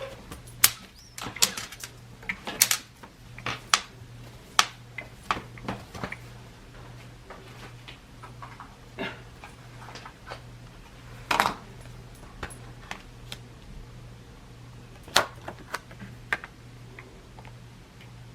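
Irregular sharp clicks and light taps from craft materials being handled and set down on a worktable, loudest twice near the middle, over a steady low hum.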